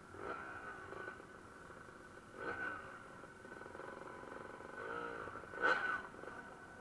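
Dirt bike engines revving in several short rises and falls, the loudest near the end.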